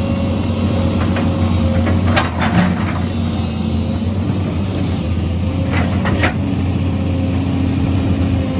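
Heavy diesel engine of an excavator running steadily, with two clusters of sharp knocks, about two seconds in and again about six seconds in.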